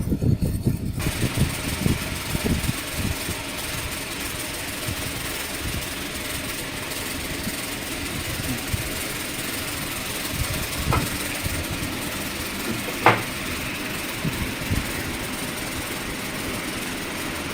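A machine running with a steady noise, with a few low knocks in the first seconds and one brief sharp high squeak or click near the end.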